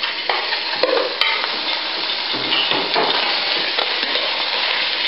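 Raw chicken pieces sizzling as they brown without oil in a stainless steel Saladmaster MP5 electric roaster preheated to 230 °C. A metal spoon knocks and scrapes against the pan a few times in the first second or so.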